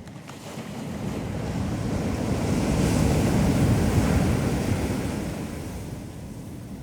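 A single ocean wave washing up the beach: the surf swells for about three seconds, peaks, then fades away as it runs out.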